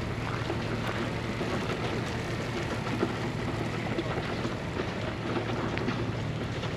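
Steady city ambience in a snowstorm: a constant low rumble of wind and distant traffic, with faint scattered ticks and crackles.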